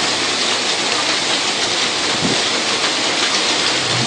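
Heavy rain mixed with small hail coming down in a thunderstorm, a steady, even hiss.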